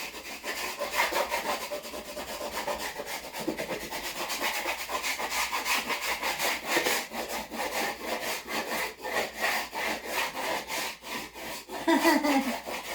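Rapid back-and-forth rubbing over a vinyl wall decal's transfer tape, pressing the lettering onto the wall, in many quick, even strokes.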